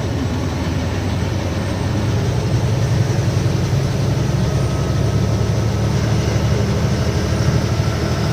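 A loaded goods truck's diesel engine running steadily, heard from inside the cab with road noise. The low hum grows a little louder over the first few seconds as the truck pulls on.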